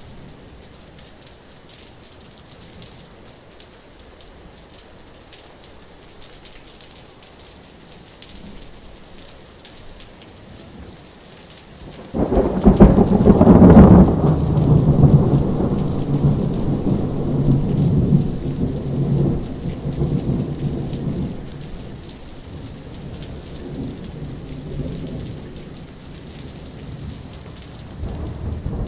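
Thunderstorm: steady rain falling, then about twelve seconds in a sudden loud thunderclap that rumbles on and slowly fades over about ten seconds. Another rumble of thunder begins near the end.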